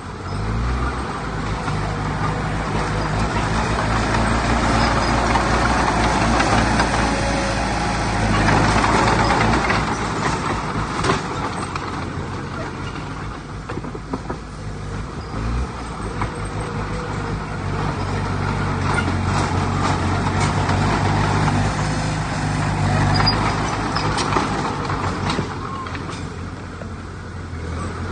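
Diesel engine of heavy earthmoving machinery running steadily, with its load rising and falling and a few sharp clanks.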